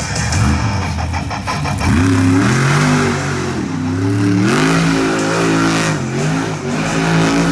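Monster truck engine revving hard during a freestyle run, its pitch climbing and dropping several times as the throttle is worked.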